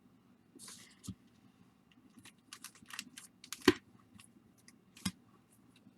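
Baseball card packs being handled and sorted by hand: crinkling foil wrappers and irregular light clicks and taps as packs are set down, with a sharper knock just past the middle and another near the end.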